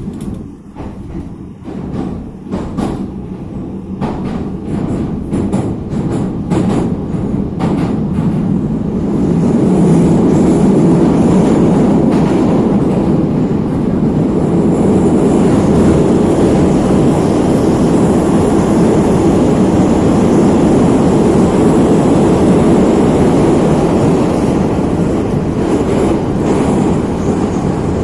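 Neva metro train heard from inside the car as it pulls away: scattered clicks of the wheels over rail joints for the first few seconds. From about nine seconds in, the loud steady rumble of the train running at speed through the tunnel takes over, with a faint high whine above it.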